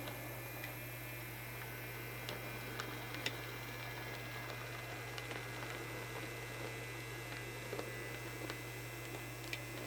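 TT scale SW1200 model diesel locomotive running slowly on low-voltage DC while pushing a boxcar up a steep grade: a steady low hum with a few light clicks from the wheels on the track.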